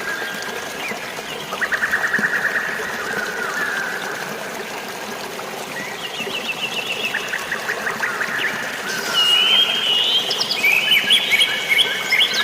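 Several birds singing at once, a mix of fast rapid-fire trills and short chirps that overlap and grow busier near the end, over a steady hiss of flowing water and light rain.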